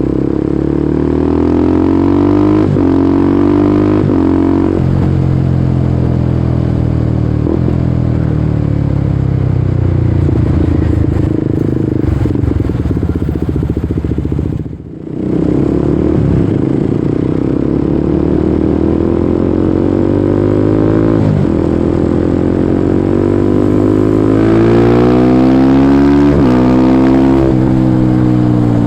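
Kawasaki Ninja 250SL single-cylinder engine through a KEA Speed NA 1 aftermarket exhaust, ridden and pulling through the gears. The pitch climbs and drops back several times as the rider shifts, and the sound dips briefly about halfway through.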